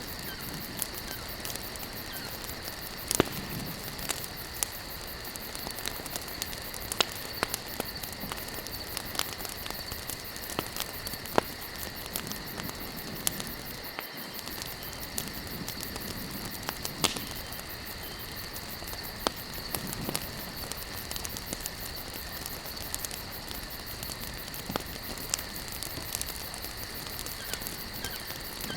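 Campfire of burning logs crackling: a steady hiss with irregular sharp snaps, and a handful of louder pops.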